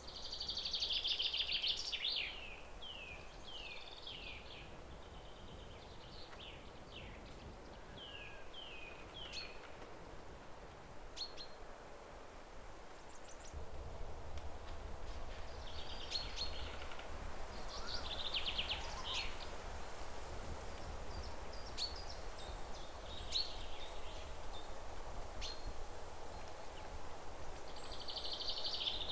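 Several songbirds singing and calling: bursts of quick trills and repeated short downward-sliding notes, some loud and close, over a steady outdoor background hiss that grows slightly louder about halfway through.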